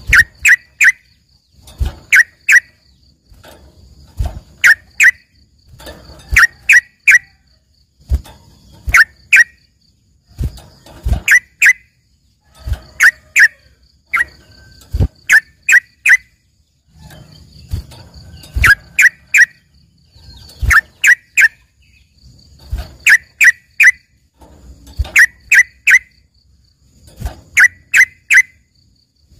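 Yellow-vented bulbul (trucukan) singing in short, loud bursts of two to four sharp, clear notes, repeated about every two seconds. It is a learned 'isian' song that sounds like a greater green leafbird (cucak ijo) in full song.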